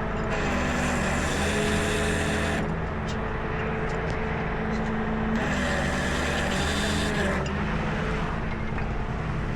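Tow truck engine running with the hydraulic boom controls worked twice. Each time, for about two seconds, the engine picks up speed under the hydraulic load and a rushing hiss comes in, then both settle back to a steady idle.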